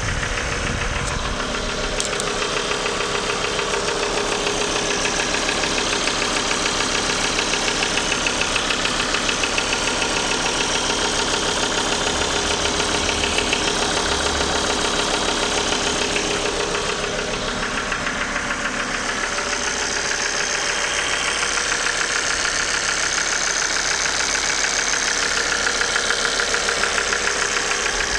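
Car engine running steadily with a rapid metallic clacking; the clacking comes from a failed oil pump.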